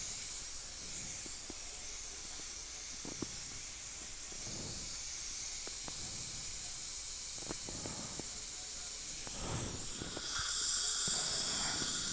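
Dental suction hissing steadily as it draws air and fluid from the mouth, with a few faint clicks; the hiss grows stronger near the end.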